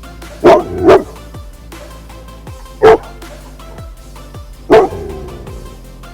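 A black Labrador barking four times, two barks in quick succession about half a second in, then single barks near three and near five seconds, over background music.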